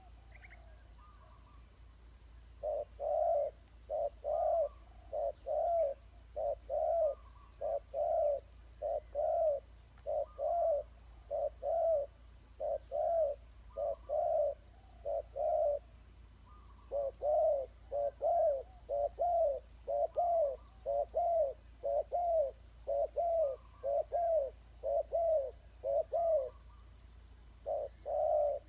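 A bird's low cooing call: arched hooting notes repeated in long runs of about one to two a second, with a short break about halfway through.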